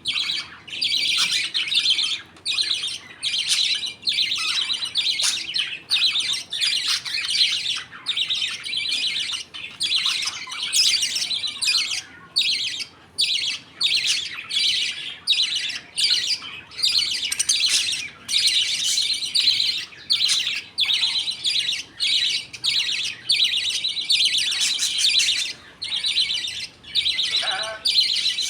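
A colony of budgerigars chattering continuously, many short chirps and warbles overlapping with hardly a pause.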